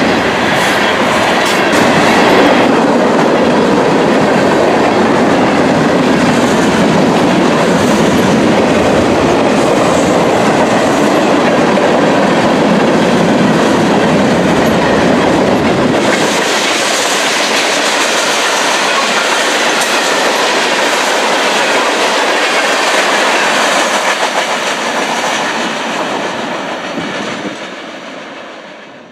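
Norfolk Southern freight train's hopper cars rolling past close by, steel wheels running on the rails with a steady, loud noise. The noise fades away over the last few seconds as the end of the train moves off.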